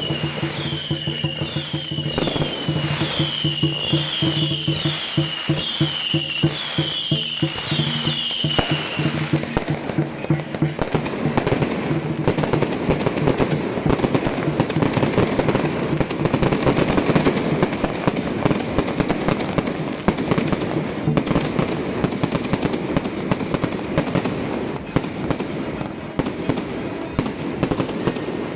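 Aerial fireworks going off in a dense, continuous barrage of rapid crackling bangs. For about the first third, a repeated falling whistle-like tone and a low steady hum sound along with them, then the crackle carries on alone.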